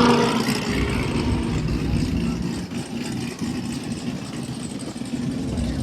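Car engine idling with a low, uneven rumble, easing slightly in loudness; just after it starts, a higher-pitched engine note dies away.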